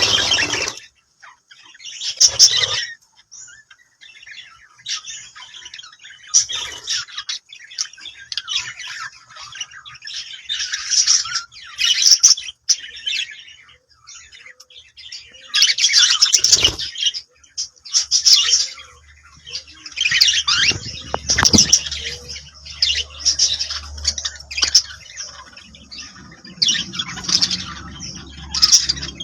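A flock of budgerigars chattering, with bursts of high chirps and warbles coming every second or two. A faint low rumble runs underneath in the second half.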